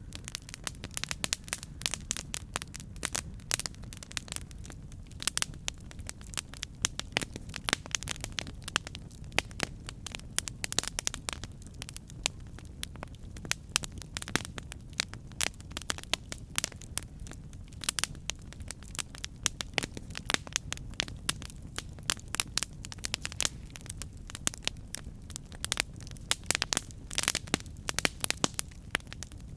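Campfire burning with a steady low rumble of flames and dense, irregular crackles and pops of burning wood.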